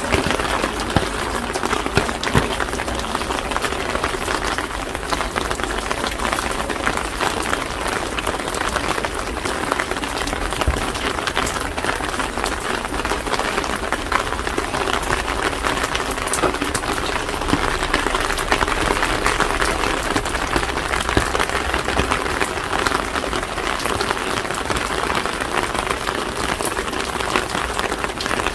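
Steady rain falling, with a dense pattering of individual drops.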